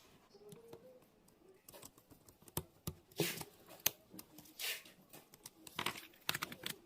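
Quiet bench-work handling: scattered small clicks and a few short rustling or scraping strokes.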